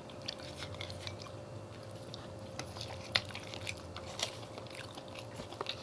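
People chewing KFC fried chicken and french fries: scattered soft crunches and wet mouth clicks. A faint steady hum runs underneath.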